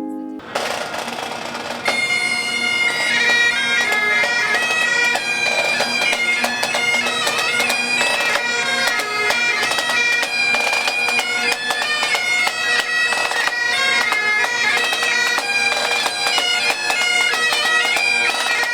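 Bagpipes playing a tune over steady drones. The drones come in first, and the melody with its quick grace notes starts about two seconds in.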